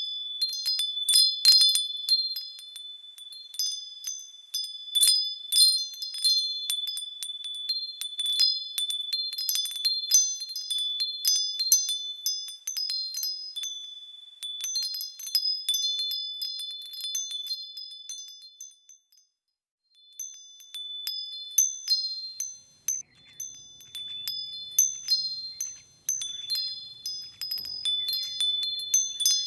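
Small birds chirping: quick, sharp chips and short held high notes over a near-continuous high tone. The sound cuts out briefly about two-thirds of the way through.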